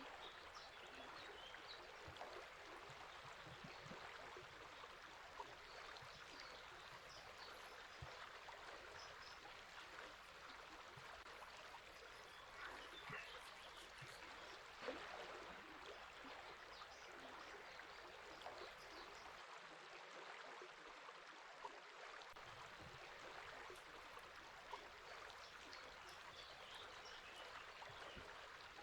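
River water flowing in a steady, faint rush, with scattered bird chirps over it.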